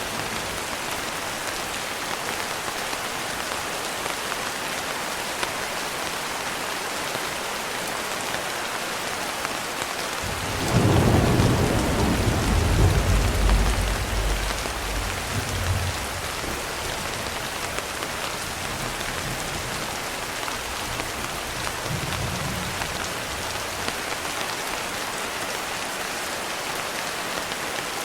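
Steady rain pattering on a window, with a roll of thunder breaking in about ten seconds in, rumbling low for some five seconds and dying away, and a faint distant rumble later on.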